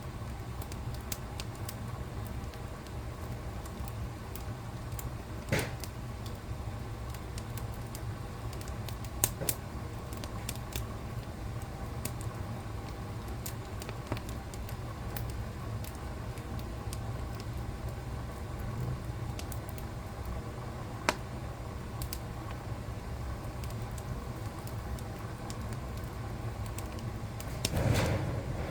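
Wood fire crackling in a fireplace: scattered sharp pops and snaps over a steady low rumble of the flames, with a few louder pops and a fuller burst of crackling near the end.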